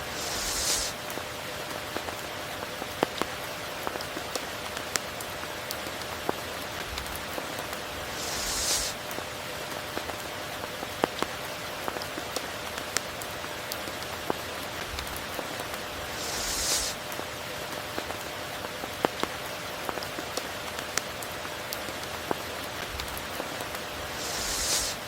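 Steady rain falling, with many sharp raindrop ticks over an even hiss. A brief high hissing swell rises and cuts off about every eight seconds.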